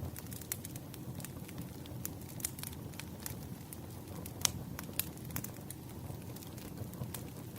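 Bonfire crackling: irregular sharp pops, a few louder than the rest, over a steady low rumble of the flames.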